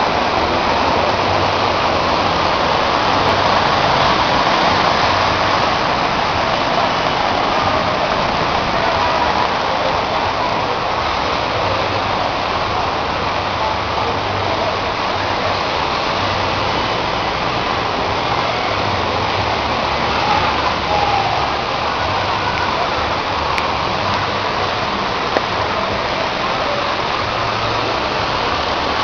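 Heavy rain pouring steadily, with floodwater rushing through the street.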